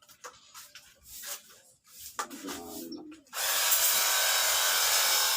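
A few faint handling clicks and rubs, then about three seconds in a battery-powered pressure washer switches on and runs steadily with a loud even hiss and hum. It runs without cutting out; the owner puts its earlier cut-outs down to a flat battery.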